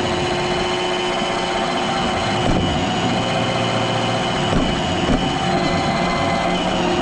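iRobot Roomba robot vacuum running: a steady whirring hum of its vacuum motor and brushes, with a few light knocks around the middle.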